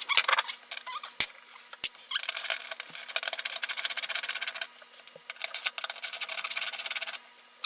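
Screwdriver backing out a screw: a couple of single clicks, then from about two seconds in a fast, even run of fine ticks and scraping that stops shortly before the end.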